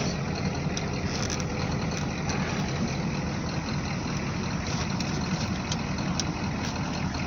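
Ford 6.9-litre IDI V8 diesel engine of a 1986 F-250 running steadily at low revs, with a low rumble that holds even throughout.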